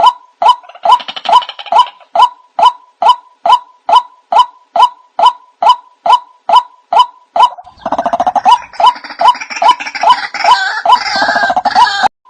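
Recorded white-breasted waterhen (ruak-ruak) calls played as a bird lure: short calls repeated evenly, about three a second. About eight seconds in, a louder, harsher jumble of calls joins in, then breaks off briefly near the end.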